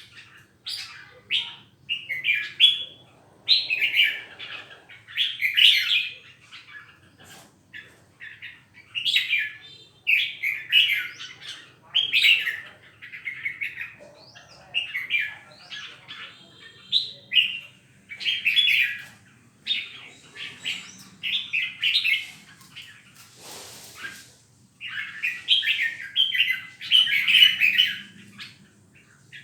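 Caged songbird singing short, loud phrases in quick succession, a burst of song every second or two. There is a brief rustle about twenty-four seconds in.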